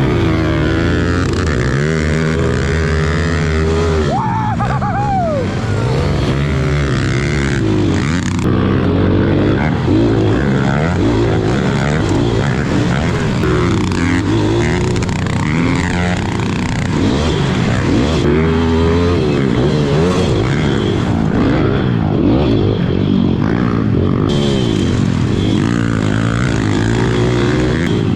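Pit bike engines revving up and down as they race, pitch rising and falling repeatedly, with abrupt shifts every few seconds.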